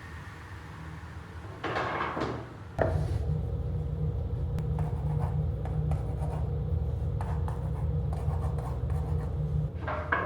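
Wood being rubbed or shifted, then a click about three seconds in as a workshop machine starts and runs with a steady low hum and a faint whine. Light taps and knocks sound over the hum.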